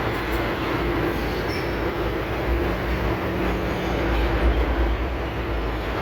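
Steady mechanical rumble with a low drone and a wavering hum.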